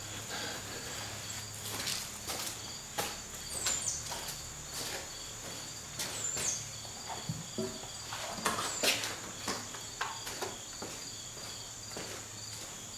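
Scattered clicks and knocks of a hand wrench working loose the nuts that hold a Rolls-Royce Phantom III's front suspension pan member, irregular and a second or so apart. Under them run a steady high-pitched tone and a low hum.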